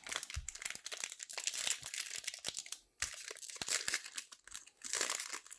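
Crinkling of a foil trading-card pack wrapper being handled, in irregular stretches with a brief pause about three seconds in.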